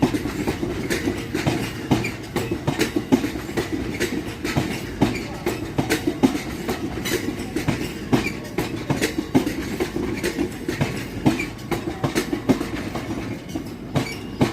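Train running past, its wheels clattering rapidly and irregularly over the rail joints, over a steady rumble.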